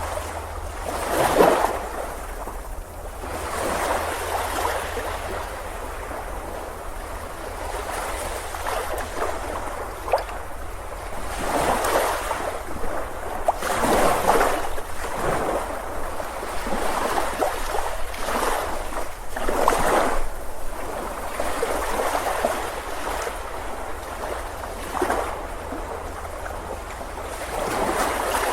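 Ocean surf breaking and washing up a beach, rising and falling in irregular swells every few seconds over a steady low rumble.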